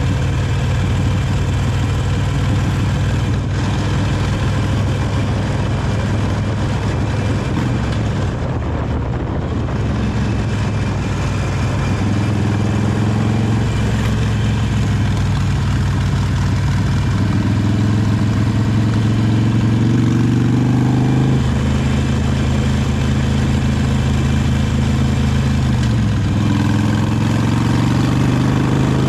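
Harley-Davidson 883 Iron's air-cooled V-twin on its stock exhaust, running under way on the road. The engine note rises twice as it accelerates, dropping back in between.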